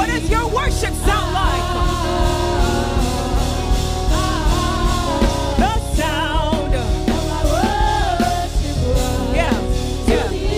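Live gospel worship music: a woman's voice singing a melismatic line with vibrato over a band with drums.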